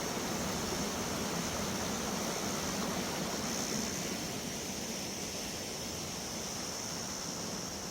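Steady rushing of a mountain valley stream, an even hiss that eases slightly about halfway through.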